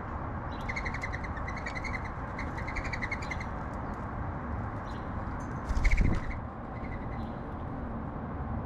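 Sparrows chirping: quick runs of short, repeated chirps for the first few seconds, with a few more later, over steady background noise. A brief loud thump about six seconds in.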